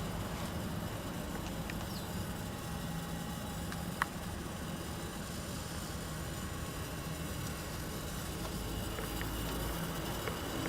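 Steady low hum of a vehicle engine running, with a single sharp click about four seconds in.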